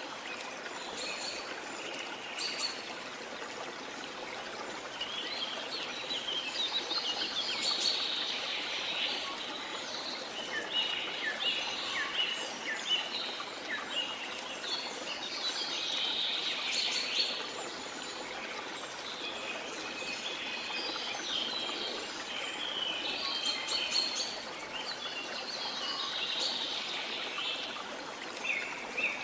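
Steady rush of falling water from a waterfall, with many birds chirping and calling over it in repeated clusters of short calls.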